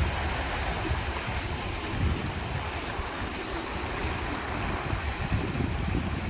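Sea waves washing in, with wind buffeting the microphone in low gusty rumbles.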